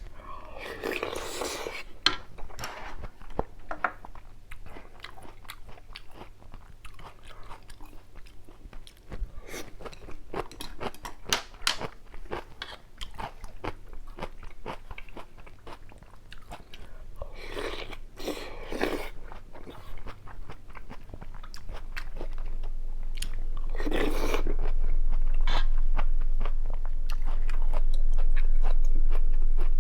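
Close-miked eating of spicy ramyun with kimchi and rice: crunchy bites and wet chewing clicks, with a few louder bursts. A low rumble builds up over the last several seconds.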